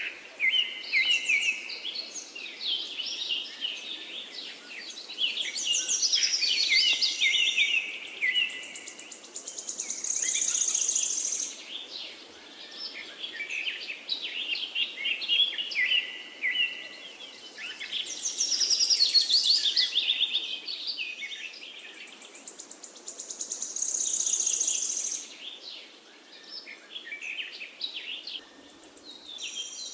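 Several songbirds chirping and singing in quick overlapping phrases, with a high buzzing trill now and then, over a faint steady background hiss. The same stretch of calls comes round again about every 13 seconds, as in a looped recording.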